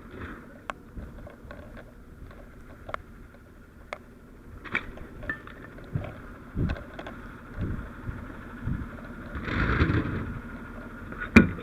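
Scattered knocks, clicks and thumps of firefighting equipment being handled, with a short rush of noise about ten seconds in and a loud sharp knock near the end.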